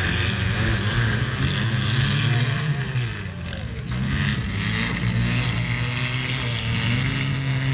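Engines of several demolition derby cars running together, a steady low rumble that dips briefly about three seconds in.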